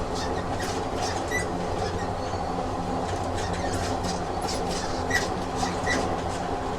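Train sound effect: a train running along rails with a steady low rumble, scattered wheel clicks, and a few brief squeaks.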